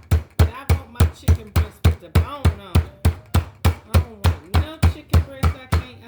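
Chicken breast being pounded flat inside a plastic bag: a steady run of heavy blows, about three a second.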